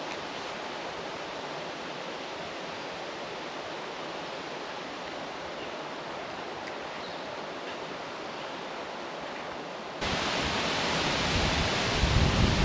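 Steady, even outdoor hiss with no distinct events. About ten seconds in it cuts suddenly to louder wind buffeting the microphone, with a low rumble that grows near the end.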